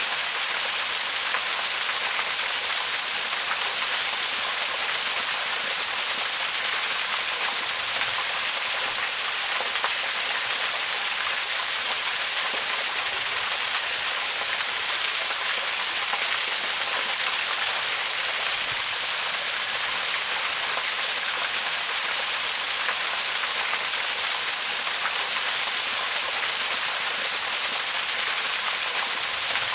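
Waterfall: a steady, even rush of falling water, a hiss with most of its weight in the high range and no change throughout.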